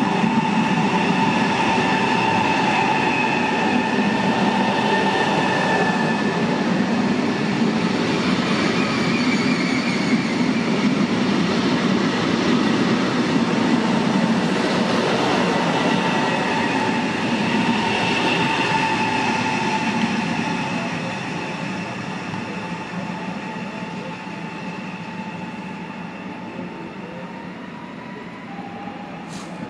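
Double-deck electric regional train running past along the platform: a dense rumble of the cars with a whine of several steady high tones. After about twenty seconds it fades steadily as the train draws away.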